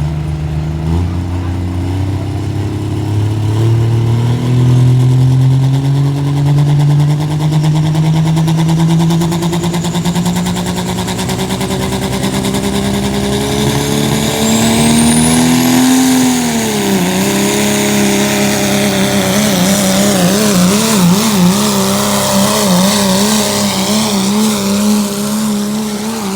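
Dodge pulling truck's engine at full throttle under load, its pitch climbing steadily for about sixteen seconds with a high whine rising over it. Then the engine note dips suddenly and wavers up and down unevenly.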